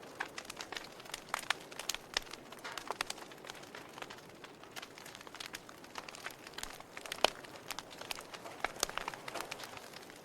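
Wood fire burning in a fireplace: irregular crackles and pops over a soft hiss, with one sharper pop about seven seconds in.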